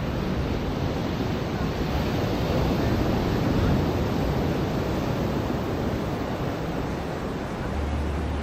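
Ocean surf washing onto a beach: a steady rush of breaking water that swells to a peak about halfway through, then eases.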